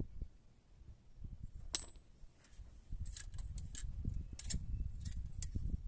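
Light metallic clicks and clinks of a feeler gauge and hand tools on the valve gear of a VAZ 2103's engine, stopped with the valve cover off, as valve clearance is checked. A single click comes about two seconds in, and a quicker run of clicks follows from about three seconds in.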